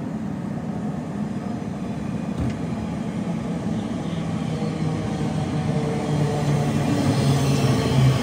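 A train approaching along the main line, its low steady hum growing louder over the last few seconds.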